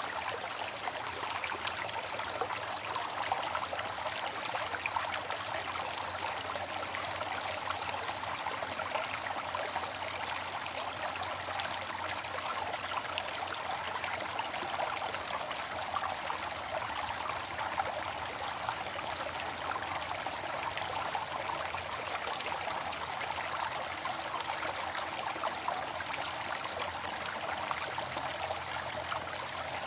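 Water fountain splashing and trickling steadily, an even rush of falling water without pause or rhythm.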